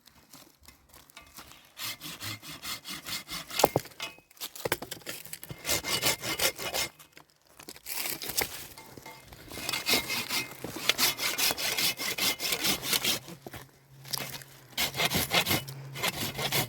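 Hand saw cutting wood in runs of quick back-and-forth strokes, stopping briefly twice.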